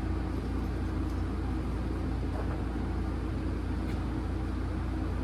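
A steady low hum with a faint droning tone, holding even throughout, with a few faint light clicks.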